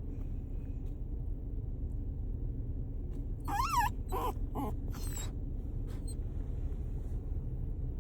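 Excited dog making high, squeaky whining chirps that sound like a bird: a quick cluster of calls about halfway through, the first warbling up and down, then two shorter lower ones and a breathier one. Underneath is the steady low rumble of a moving car's cabin.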